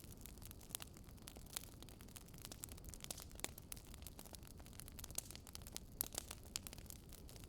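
Wood fire crackling: a steady low rumble with frequent irregular small pops and snaps.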